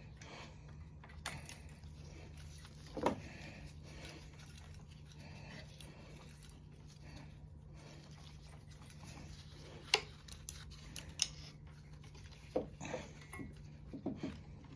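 Small metal parts and hand tools being handled: scattered light clicks and clinks, a handful of sharper taps in the second half, over a steady low hum.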